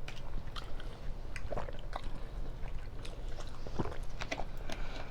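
Close-miked chewing and biting of food, with scattered small wet mouth clicks.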